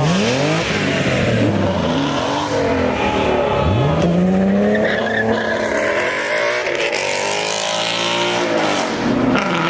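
A car engine revving hard as the car accelerates, its pitch climbing near the start and again about four seconds in after a drop.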